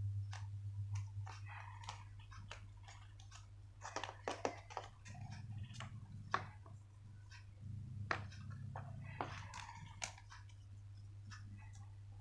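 Sheet of coloured paper crackling and rustling in irregular bursts as it is folded and creased by hand, over a steady low hum.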